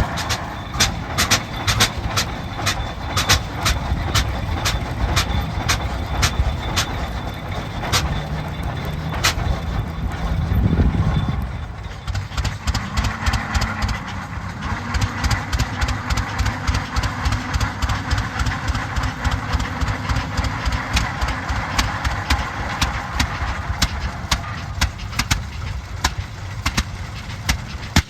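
Old tractor engines running steadily, with a string of sharp clacks and knocks throughout and a brief rise in engine pitch about ten seconds in.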